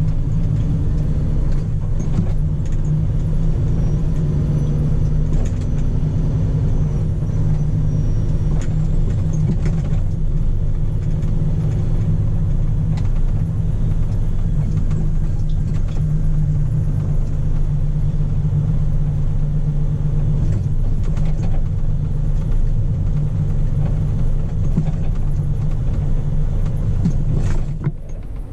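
Scania P400 truck's diesel engine running with a steady low drone, briefly dipping in level just before the end.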